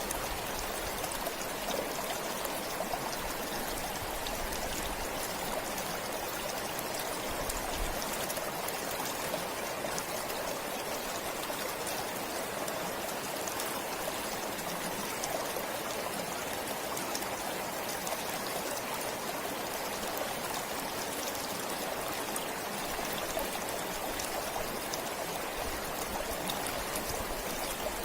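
A forest stream flowing steadily, an even rush of water with fine splashing and trickling.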